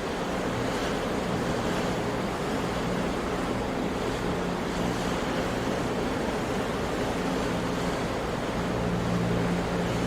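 Sea surf: a steady, unbroken rush of waves, with a faint low hum underneath that grows slightly stronger near the end.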